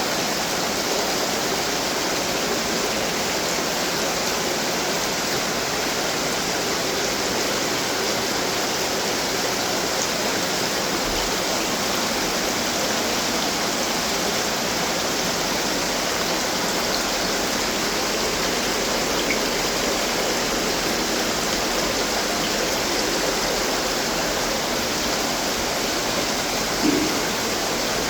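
Decorative water fountains running, with a steady, even splashing and trickling of falling water.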